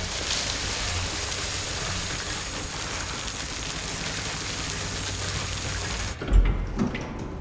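Steady rushing hiss that cuts off suddenly about six seconds in, followed by a low thump.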